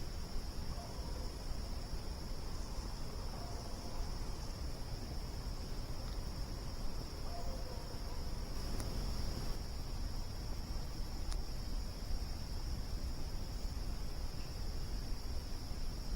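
Steady chorus of insects holding one high pitch, over a low rumble, with two faint snaps from the campfire about nine and eleven seconds in.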